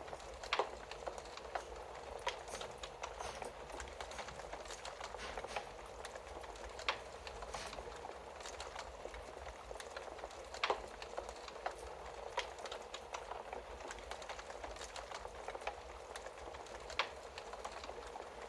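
Wood fire burning in a fireplace: a steady hiss with continuous small crackles and four louder sharp pops, the loudest about eleven seconds in.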